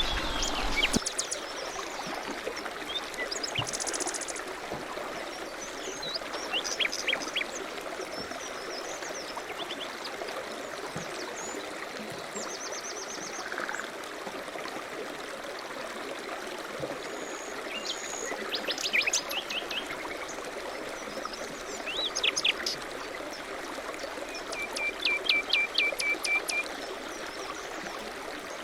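Songbirds singing and chirping in short, high phrases over a steady rush of running river water, with a rapid trill of repeated notes near the end.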